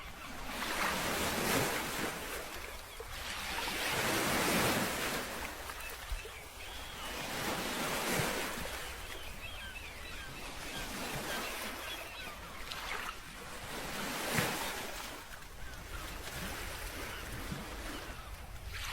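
Black Sea waves breaking and washing onto the shore, the surf rising and falling every few seconds.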